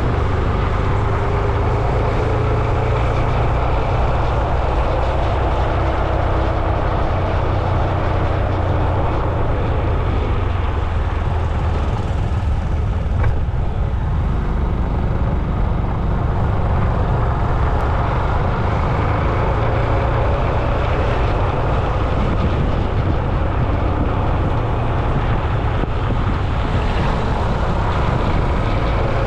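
Road traffic noise heard while riding along a road: a steady low rumble with the engines of passing vehicles rising and falling in pitch. There is a single sharp tick about 13 seconds in.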